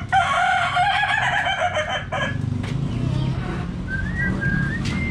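A crowing call like a rooster's cock-a-doodle-doo, about two seconds long, followed by a few short chirping whistles.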